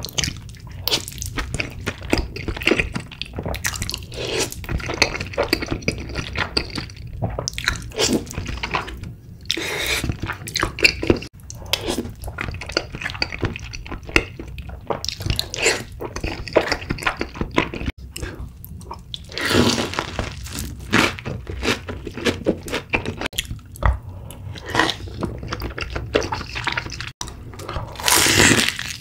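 Eating sounds: chewing and slurping of cheese-covered tteokbokki rice cakes, a dense run of irregular wet clicks and smacks. Near the end, a crunchy bite into glazed fried chicken.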